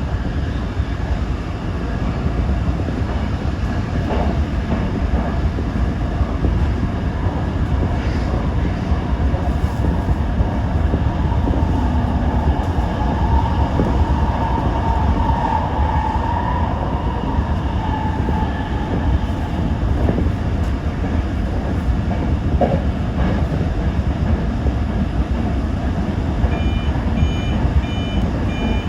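Toyo Rapid Railway 2000 series electric commuter train running at speed, heard from inside: a steady low rumble of wheels and motors, with a higher tone that swells and fades in the middle. Near the end come a series of short electronic beeps.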